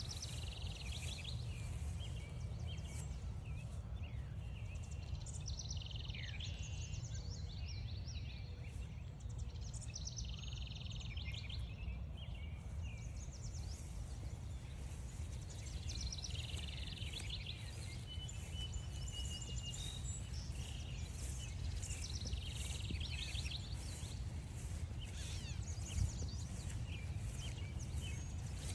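Songbirds singing, with one bird repeating a short trilled phrase every five or six seconds, over a steady low rumble and faint scattered ticks.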